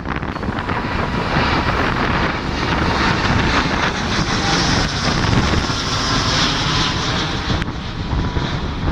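Jet airliner engines running as the aircraft passes, a loud, steady rushing noise that swells about a second in and eases off near the end, with wind buffeting the microphone throughout.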